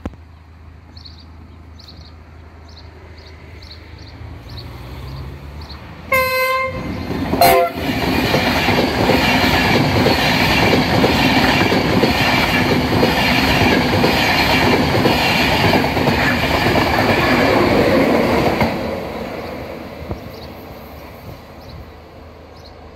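A level crossing warning alarm pulses faintly about twice a second. Then an InterCity 225 express (Class 91 locomotive with Mark 4 coaches) sounds two short horn blasts and passes at speed, loud, with rhythmic wheel clatter for about ten seconds before fading away.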